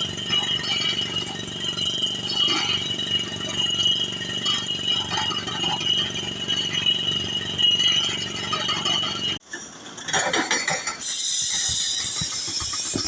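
Crawler rock-drilling rig running: a steady engine drone with a high whine, which cuts off abruptly about nine seconds in. A different stretch of rattling follows, then near the end a loud, steady hiss of air.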